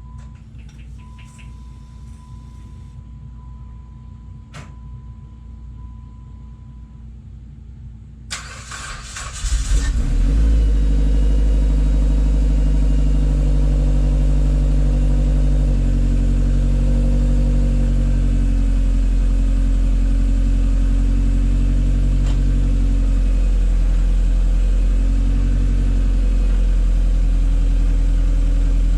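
Dodge Caliber SRT4's turbocharged 2.4-litre four-cylinder with a catless downpipe, cranking and starting about nine seconds in, then idling steadily with a loud low rumble. Before the start there is only a faint steady high tone.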